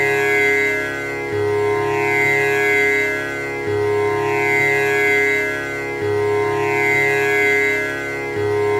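Tanpura drone: its strings plucked in a slow repeating cycle, the cycle starting over about every two and a half seconds, with a sustained buzzing shimmer.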